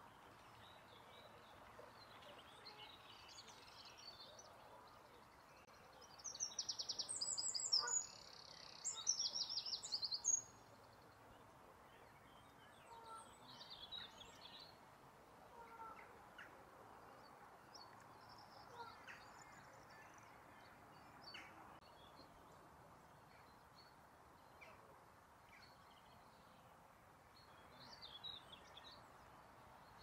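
Wild birdsong: a small songbird sings two loud phrases of rapid, high repeated notes about six and nine seconds in, with fainter short bird calls scattered through the rest.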